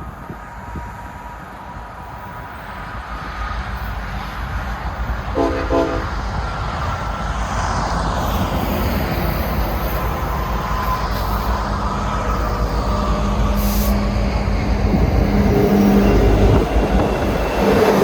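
Union Pacific diesel freight locomotive approaching, its engine and rolling rumble growing steadily louder. The horn gives a short blast about five seconds in.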